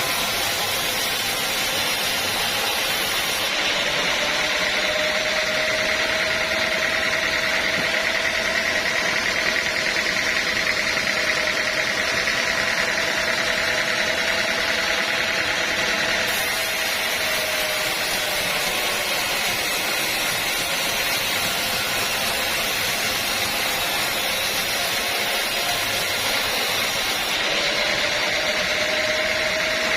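Sawmill machinery running steadily under constant mechanical noise, with a steady whine that sets in a few seconds in, fades away past the middle and comes back near the end.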